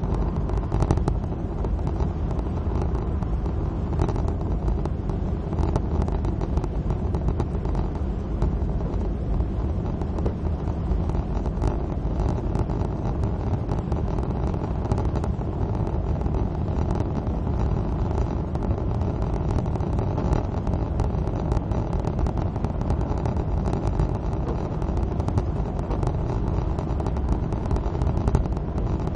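Suzuki Swift driving at motorway speed in the rain: a steady mix of low engine and road rumble with tyre noise on wet tarmac, and many faint ticks throughout.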